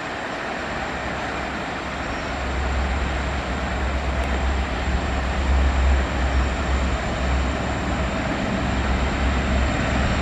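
Low rumble of an approaching train, growing louder from about two seconds in, over a steady hiss.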